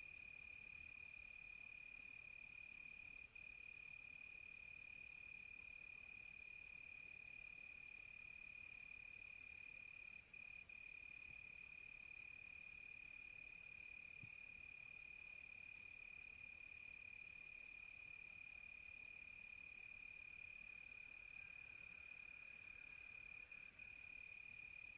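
Crickets at night: one holds a steady, unbroken high trill while another chirps in short, evenly spaced pulses, over a faint high insect hiss.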